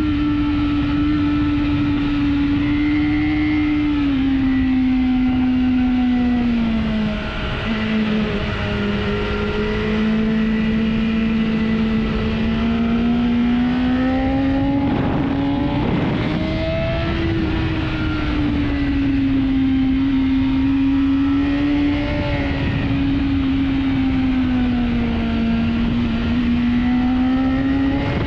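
Sport motorcycle engine heard onboard at speed under wind rush, its pitch rising and falling smoothly as the revs change, with a short drop in level about seven seconds in.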